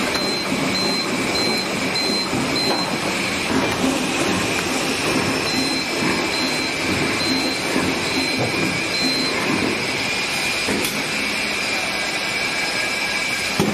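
Plastic bag cutting machine with conveyor running steadily, a dense mechanical clatter. A string of short high beeps repeats about every half second, once near the start and again in the middle, and a sharp click comes near the end.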